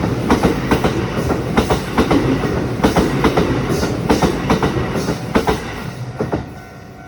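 Kintetsu Nagoya Line train running past over a level crossing, its wheels clicking over the rail joints in quick pairs above a steady rumble. The last car goes by about six and a half seconds in and the sound drops away sharply.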